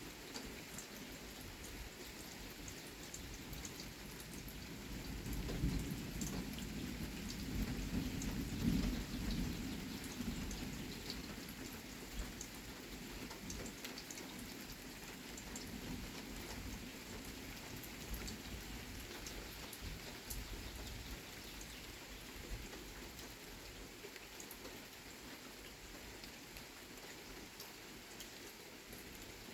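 Steady rain falling, with a low roll of thunder that builds a few seconds in, is loudest a few seconds later, and rumbles away slowly.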